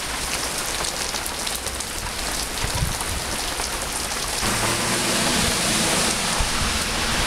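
Heavy rain pouring down in a steady hiss, growing a little louder about halfway through.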